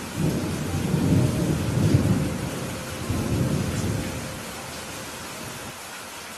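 Rolling thunder in several low swells over about four seconds, fading away, over a steady hiss of rain.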